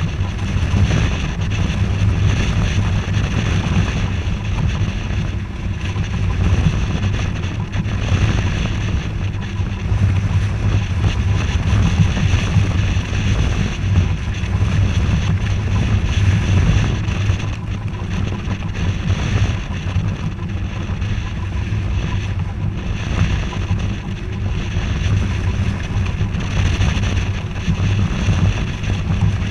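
Wind buffeting the microphone over a steady rush of water from a sailboat under way, rising and falling in gusts.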